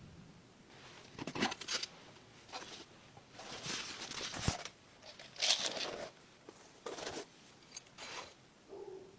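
Hands handling small parts and packaging: a series of short rustling and scraping sounds, with a sharp click about four and a half seconds in.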